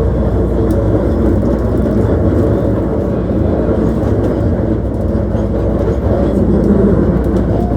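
Hankyu 1300-series electric train running at speed, heard from inside the car: a steady rumble of wheels on rail, heaviest in the low end, with no sharp changes.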